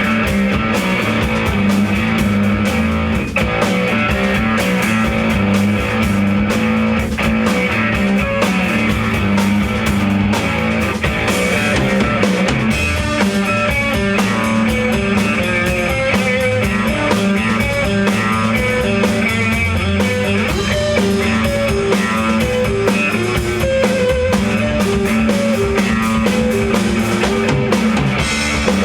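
Rock band playing live: guitar and drum kit with bass drum, in a steady loud groove.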